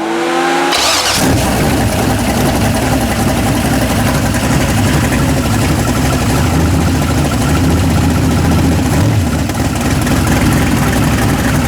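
Chevy S10 race truck's engine cranked by the starter for about a second, then catching and running steadily. It is firing on a newly fitted Mallory distributor and MSD 6AL ignition box, with the initial timing not yet set.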